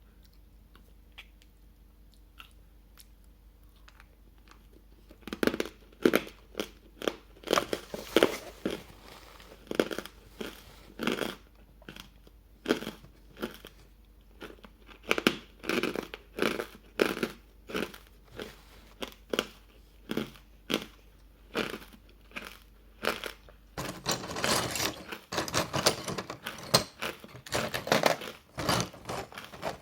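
Ice being bitten and chewed close to the microphone, the ice coated in matcha powder. A few faint clicks come first. From about five seconds in there are sharp crunching bites, roughly one or two a second, turning into dense continuous crunching near the end.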